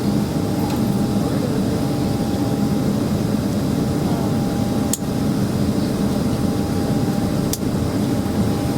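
Steady cabin noise inside a Boeing 767-300ER: a low engine hum with air-conditioning rush and a faint steady tone, broken by two brief clicks about five and seven and a half seconds in.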